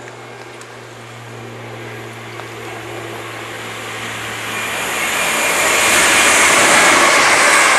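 Multiple-unit passenger train approaching at speed; its rushing wheel and air noise grows steadily louder through the second half and is loudest near the end. A steady low hum sits underneath for the first half.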